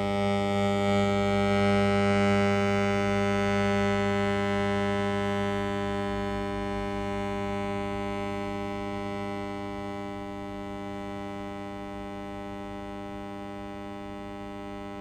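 Loudspeaker of a microwave detector giving a steady, humming electronic tone with many overtones. It grows louder over the first couple of seconds and then slowly fades as the point detector is moved away from the paraffin wax lens, its loudness following the strength of the microwaves that the detector picks up.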